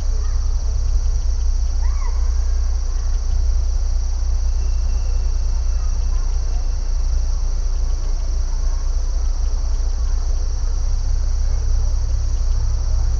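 Steady, high-pitched chorus of crickets or similar insects over a low rumble, with scattered faint bird chirps, one clearer call about two seconds in.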